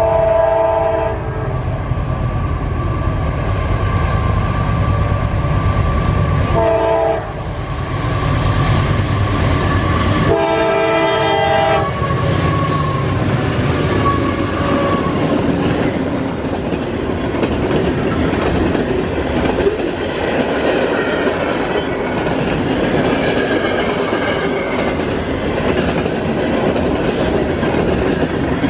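A CSX freight train passes close by. Its diesel locomotive horn sounds three blasts: a longer one at the start, a short one about seven seconds in, and a longer one about ten seconds in. The deep engine rumble is loud until the locomotives go by, then the rail cars clatter steadily over the rail joints.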